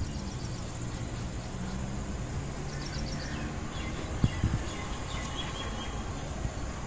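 Small birds chirping in short runs from about three seconds in, over a steady low hum; two soft knocks a little after four seconds.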